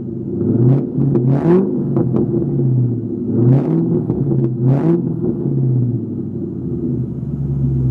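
2000 Ford Mustang GT's 4.6-litre V8 through a Magnaflow X-pipe and 3.5-inch exhaust, idling with several quick throttle blips in the first five seconds that rise and fall in pitch, then settling back to a steady idle.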